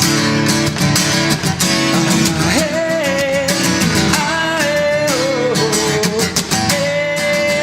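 Acoustic guitars strumming in the instrumental break of a folk-pop song; a long held melody line comes in about two and a half seconds in and slides between notes.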